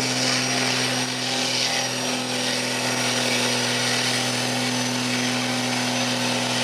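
Diesel pickup truck engine held at high, steady revs under load, pulling a weight sled, with a thin steady high whine over the engine note.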